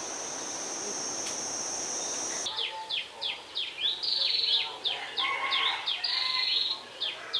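A cricket's steady high trill over a haze of background noise, which cuts off abruptly about two and a half seconds in. Then a bird calls in quick runs of short falling chirps, several a second.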